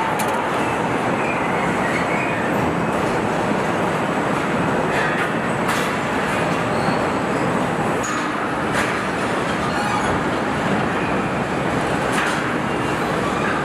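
Steady assembly-line machinery noise, a dense even din with a few sharp metallic clicks or clanks.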